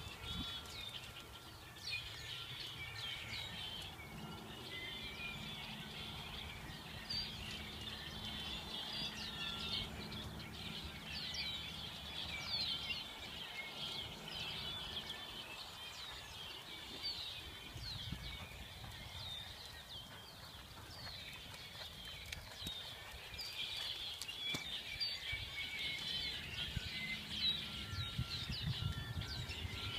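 Many small birds chirping and singing continuously, quick overlapping chirps and short falling notes, over a low rumble.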